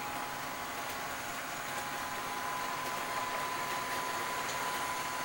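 Model SD35 diesel locomotive running on a model railroad, its Digitrax SDH164D sound decoder playing diesel engine sound through a small speaker: a steady hissing drone with a thin steady whine.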